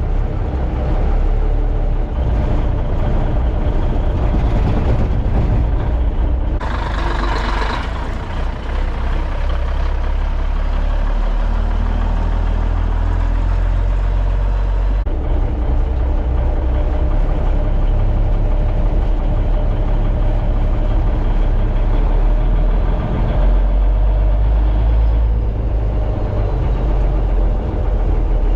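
Cummins diesel engine of an old Brockway truck running under a rope-worked throttle, its engine note stepping up and down several times. A hiss lasting about a second and a half comes about six and a half seconds in.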